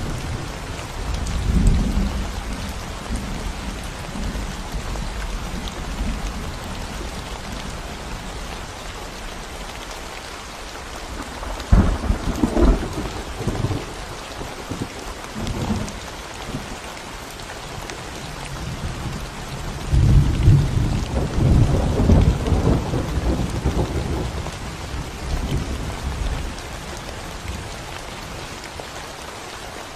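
Steady rain falling on a concrete road and surrounding plants, with low rumbles of thunder: a sharper burst about twelve seconds in and a longer rolling rumble starting about twenty seconds in.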